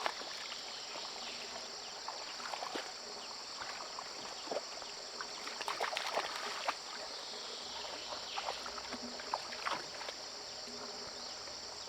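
Steady high-pitched insect chorus, crickets among them, with scattered small rustles and clicks of movement through wet vegetation.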